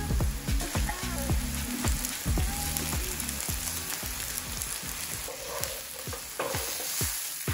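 Onions and spices sizzling in a non-stick frying pan, with a wooden spoon scraping and knocking against the pan as they are stirred.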